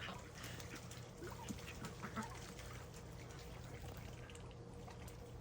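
Domestic geese giving a few faint, short calls, scattered through the first half, over a low steady hum.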